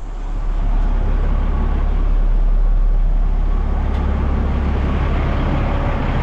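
Heavy equipment engine running steadily with a deep rumble.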